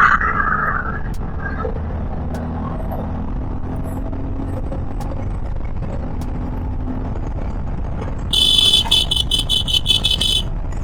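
Steady low road, engine and wind noise of a motorcycle on the move. About eight seconds in, a horn gives a rapid string of short, high beeps for about two seconds.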